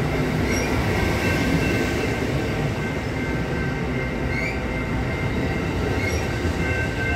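Amtrak Auto Train rolling steadily past, a continuous rumble of wheels on rail with thin, steady high-pitched wheel squeal over it.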